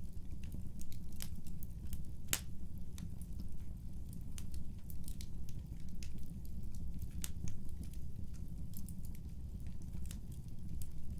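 Wood fire crackling in a fireplace: frequent sharp snaps and pops over a steady low rumble of the flames, with one louder pop about two seconds in.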